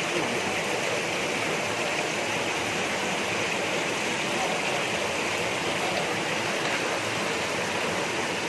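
Fast stream water rushing over and between large boulders, heard up close: a loud, steady, unbroken rush.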